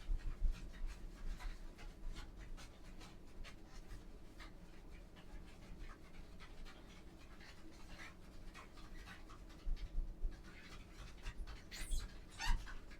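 Scrubbing: short, irregular rubbing strokes of a cleaning tool against a bathroom surface, coming faster and louder in the last couple of seconds.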